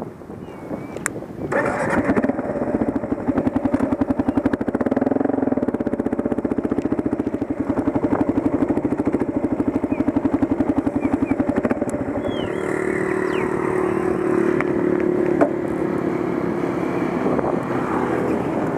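Motorcycle engine starting about a second and a half in, then idling steadily with an even run of firing pulses.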